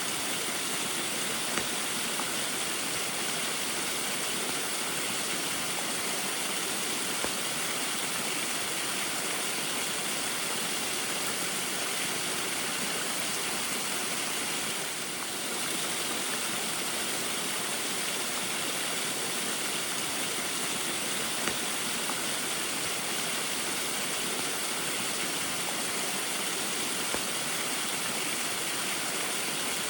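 Small waterfall in the rain: a steady, even rush of falling and splashing water, dipping briefly in level about halfway through.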